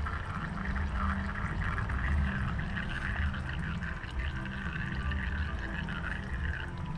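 Drained fluid pouring steadily into a drain pan, a continuous trickling stream.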